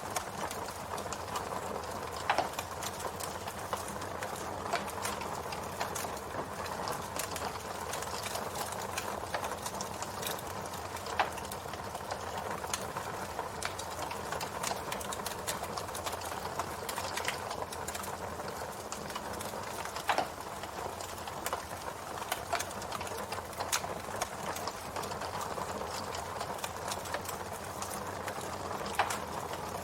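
Campfire burning with a steady crackling hiss, and sharp pops of burning wood every few seconds.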